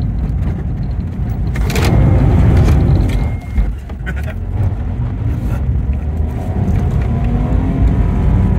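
Smart fortwo's small three-cylinder petrol engine running under load with road noise, heard from inside the cabin while driving. The level dips briefly about three and a half seconds in, and the engine note rises toward the end.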